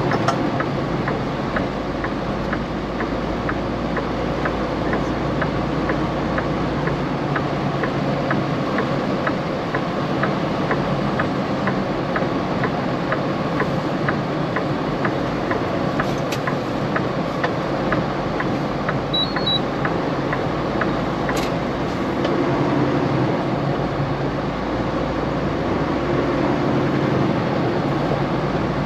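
Steady rumble and road noise inside a semi-truck cab while driving. A regular light ticking, about two a second, runs through the first half or so.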